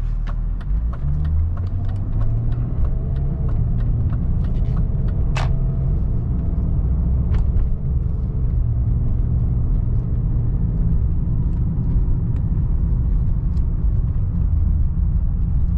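2003 BMW 525i's straight-six engine pulling away, its note rising about a second in, then a steady low driving rumble. A light ticking runs through the first few seconds.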